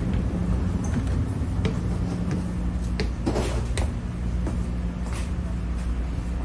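Inside a moving NJ Transit double-deck coach: the steady low rumble and hum of the train running, with scattered knocks and rattles, a short cluster of them about three seconds in.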